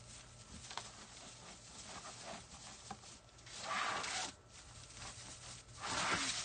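Rustling and rubbing of craft materials being handled, likely the artificial evergreen wreath base, with two louder rustles about four and six seconds in.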